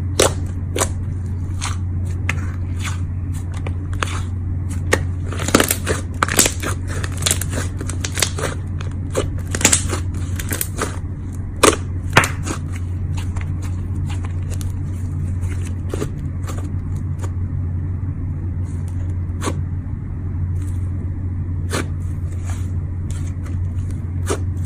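Slime being pressed and worked by hand, giving sharp crackles, clicks and pops. They come thick through the first half and grow sparser later, over a steady low hum.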